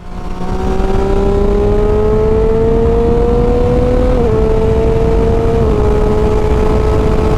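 Motorcycle engine running under load with heavy wind rush. Its pitch climbs steadily for about four seconds, then dips slightly twice.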